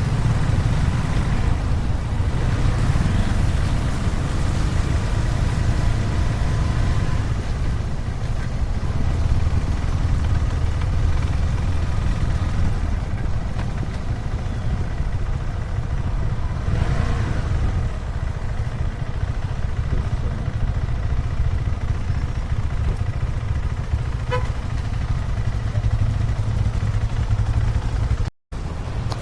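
Motorcycle engine running steadily with a low rumble, briefly cutting out near the end.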